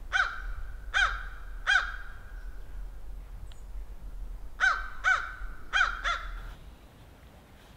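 A bird calling: three short calls about three-quarters of a second apart, then after a pause four more in quicker succession.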